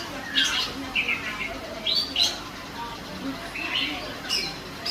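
Female green leafbird (cucak ijo) calling actively: a string of short, high chirps and brief trills, about one every second.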